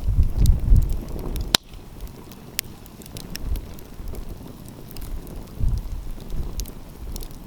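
Wood fire crackling, with scattered small snaps and one sharp, loud pop about a second and a half in. Low rumbling gusts of wind on the microphone in the first second and again past the middle.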